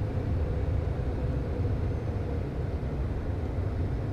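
Steady cockpit noise of a Premier I business jet in flight: a low rumble of airflow and its twin turbofan engines, with a faint steady hum above it.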